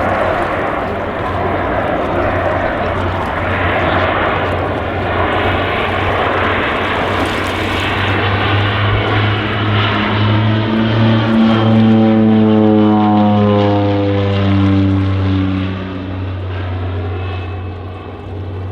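RCAF CC-138 Twin Otter's twin PT6A turboprops and propellers droning on a flyby pass, growing louder about halfway through, then the propeller tones dropping in pitch as it goes past and the sound falls away near the end.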